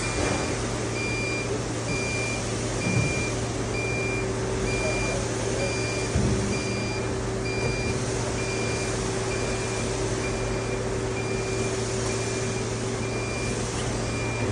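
A warning beeper sounding evenly, about one short beep a second, over the constant hum and noise of running factory machinery. A couple of dull knocks come about three and six seconds in.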